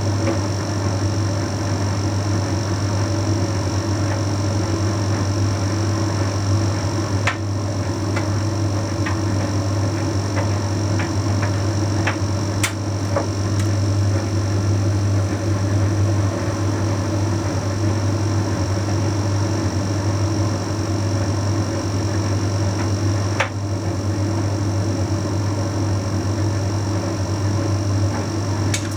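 Bosch Series 6 heat pump tumble dryer running mid-cycle on a load of shirts: a steady low hum with a few light clicks at irregular moments.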